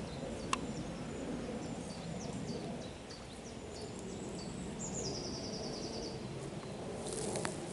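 Outdoor ambience with a low steady rumble of wind or handling noise, and a small bird singing in the background: short high chirps, then a fast high trill about five seconds in. Rustling, like footsteps in vegetation, begins near the end.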